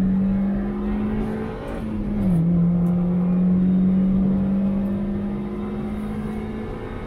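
2001 Mazda MX-5's 1.8-litre four-cylinder engine under hard acceleration, heard from the driver's seat. About two seconds in there is an upshift: the engine note drops sharply, then climbs slowly again in the higher gear.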